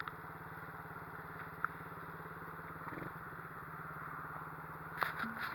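Pit bike engine idling steadily.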